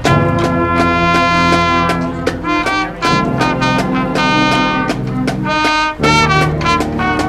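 Brass band playing a tune, with trumpets and trombones holding full chords. There is a brief break about six seconds in.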